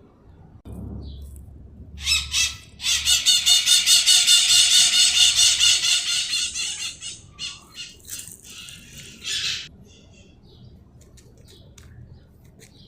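A bird squawking harshly in a rapid run of calls, several a second, for about seven seconds, loudest in the middle and tailing off near the end.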